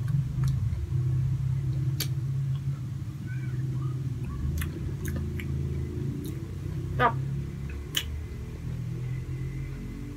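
Close-up chewing of a soft éclair-style donut bar, with scattered mouth clicks and smacks, over a low steady hum.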